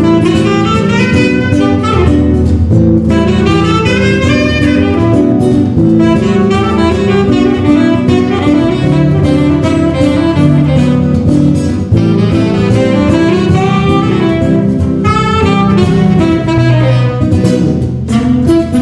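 A small instrumental trio playing live, with quick runs of notes sweeping up and down over a steady bass line.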